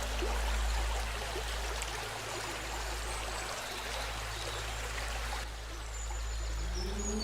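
River water rushing over rocks, a steady noise that stops abruptly about five and a half seconds in. Near the end, a sustained ringing tone begins.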